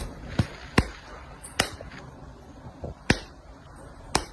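A series of sharp taps or knocks at uneven intervals, about seven in four seconds.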